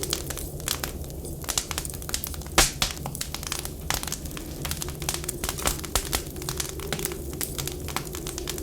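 Wood fire crackling with dense, irregular pops, one sharper and louder about two and a half seconds in. Under it run a wavering, whistling winter wind and a steady low hum.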